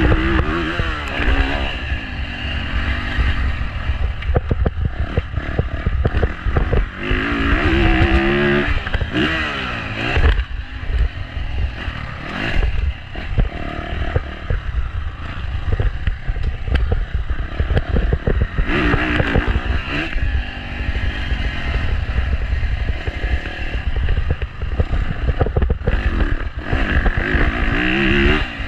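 Motocross dirt bike engine revving up and falling back again and again as it is ridden, with a heavy low rumble of wind on the microphone.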